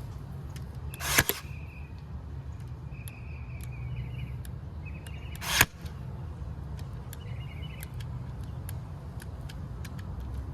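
Cordless staple gun firing twice, about a second in and again about five and a half seconds in, each shot with a brief rising lead-in. It is driving staples through metal window screen into a log. Short whirring sounds come in between the shots.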